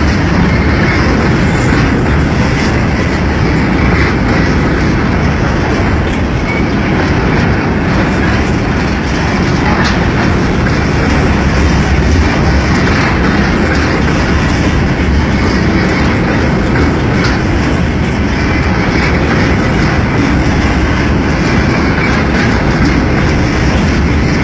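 A freight train of empty wagons rolling past at speed, the wheels on the rails making a steady, loud rolling noise.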